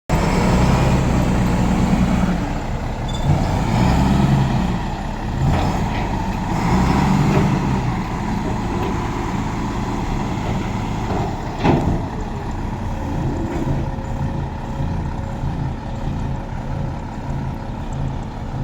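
Tanker truck engine running with an uneven low rumble, louder in the first half, with a sharp knock about twelve seconds in and fainter knocks around the middle.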